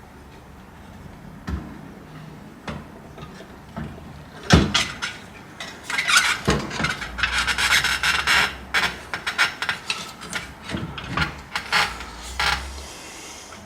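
Hand-tool work on a workpiece: rasping, scraping strokes, densest in the middle, with several sharp knocks and clicks and a faint steady low hum underneath.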